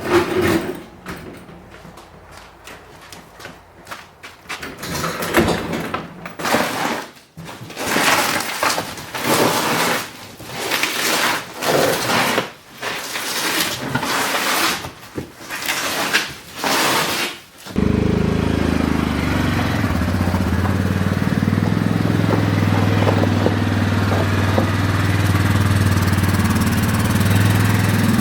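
A string of irregular noisy bursts, each about half a second to a second long, then about two-thirds of the way through an engine starts suddenly and runs at a steady idle.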